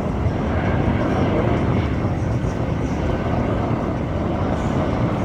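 Aircraft engines running in a steady, even noise, heaviest in the low end, with no change in level.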